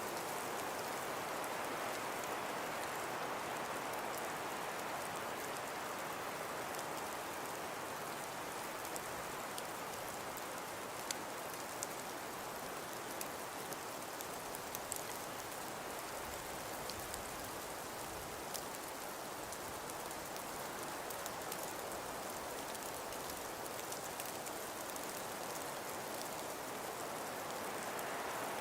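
Steady hiss of wind-driven snow in a snowstorm, with faint scattered ticks of grains striking.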